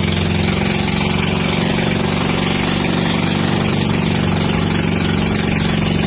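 Watercraft engine running at a steady, unchanging speed, with a constant hiss over it.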